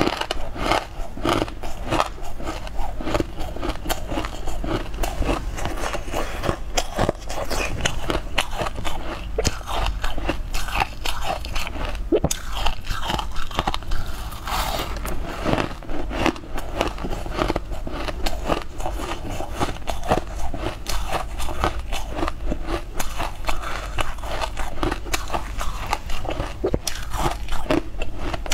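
Close-miked crunching and chewing of crunchy purple crystal-crusted blocks: a dense, irregular run of sharp crackling bites.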